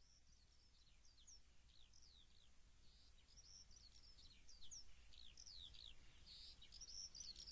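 Faint birdsong fading in: many short, high chirps that slide downward in pitch, a few each second, growing slowly louder.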